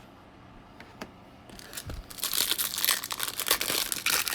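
Foil wrapper of a trading-card pack crinkling and tearing as the pack is opened, starting about a second and a half in.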